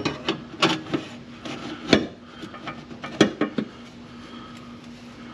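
Steel exhaust pipe and muffler pieces knocking and scraping against each other and the car as they are test-fitted, a handful of sharp clanks in the first four seconds.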